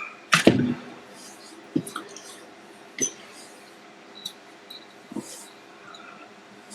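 A sharp knock about half a second in, then a few light clicks and taps, like small objects being handled on a workbench, over a faint steady hum.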